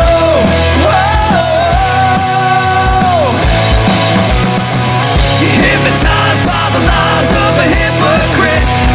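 Rock band playing loud distorted rock with a steady kick drum and crashing cymbals. A long held high note rides over the first three seconds, then slides down and drops out.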